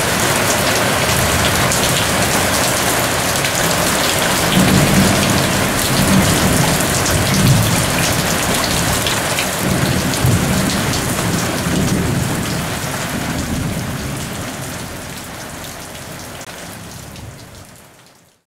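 Heavy rain pouring down steadily, with thunder rumbling low underneath and swelling several times; the sound fades away near the end.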